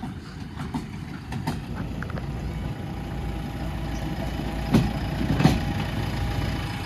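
Diesel engine of heavy machinery running steadily, slowly growing louder, with two short sharp knocks about five seconds in.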